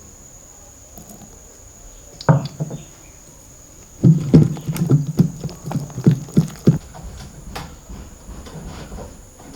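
One dull knock a little over two seconds in, then a quick run of about eight dull knocks over the next three seconds.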